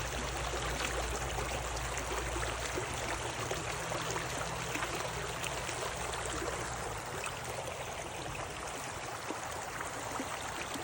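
Running water, a stream babbling steadily with many small splashes. A low rumble underneath fades out over the first several seconds.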